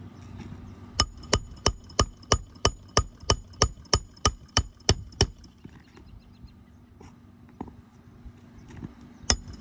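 Hand hammer driving roofing nails through a replacement asphalt shingle: a quick, even run of about fourteen ringing metal-on-metal blows, roughly three a second. After a pause, three more blows come near the end.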